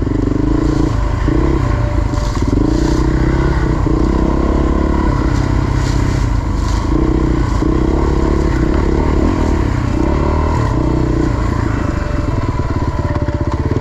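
Dirt bike engine running while riding single-track trail, its note rising and dipping with the throttle, with some scraping and clatter.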